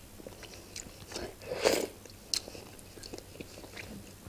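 Close-up chewing and mouth sounds of someone eating a sauce-dipped piece of khinkali, with small clicks throughout and one louder chewing sound just under two seconds in.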